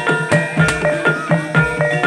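Javanese percussion music of struck, ringing tuned metal percussion over a low drum, in a steady quick beat of about four strokes a second.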